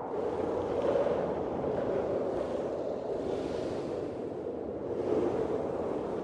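Blizzard wind blowing in gusts: a steady rushing that swells about a second in, again around three and a half seconds, and once more near five seconds.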